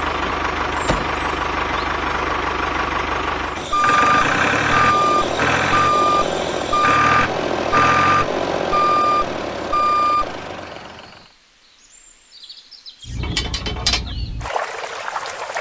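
A string of pitched electronic beeps at an even pace, about one a second, typical of a vehicle's reversing alarm, over steady background noise. Near the end the beeping gives way to a moment of quiet and then music.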